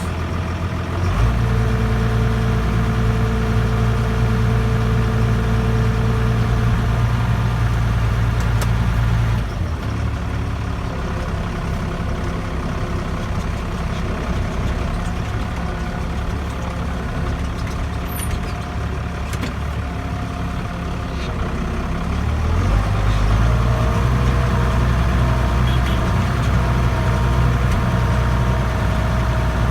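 Case 5140 tractor's 5.9-litre Cummins six-cylinder diesel running steadily. Its speed steps up about a second in, drops back about nine seconds later, and rises again near the end.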